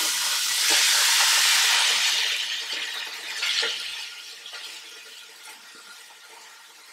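Marinated shredded chicken frying in hot vegetable oil in a pot, sizzling loudly at first and then dying down as the moisture from the chicken cooks out into the oil. A brief metal clink comes about three and a half seconds in.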